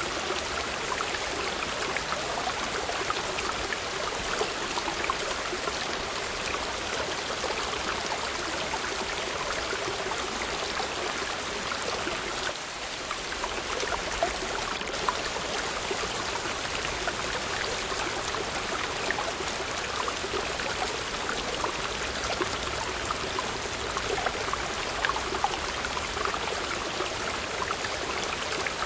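Waterfall: a steady rush of falling, splashing water with a constant patter of small splashes.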